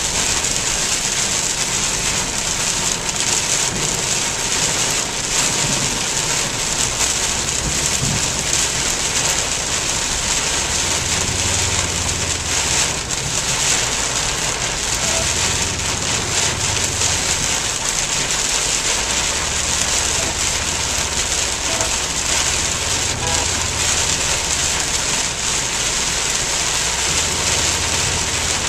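Heavy rain pelting a moving car in a downpour, a loud, steady, dense hiss. Underneath runs a low rumble that swells and fades several times.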